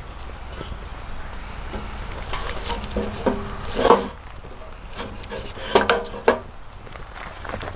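Objects being handled: scraping and rubbing with scattered knocks, three of them louder, about four, six and six and a half seconds in.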